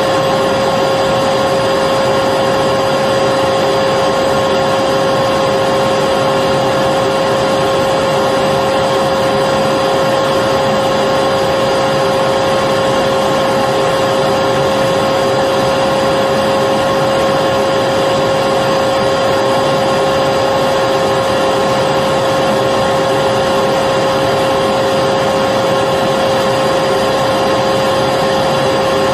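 Vacuum cleaner running steadily, with a constant motor whine over an even rushing of air and no change in speed.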